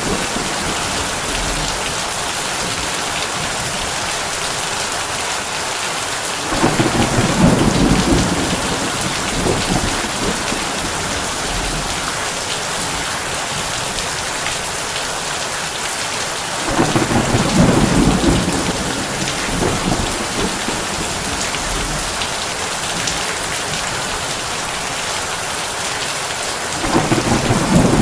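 Heavy rain drumming steadily on a tin roof, an even hiss, with low rolls of thunder rising three times, about ten seconds apart, each rumbling for two to three seconds.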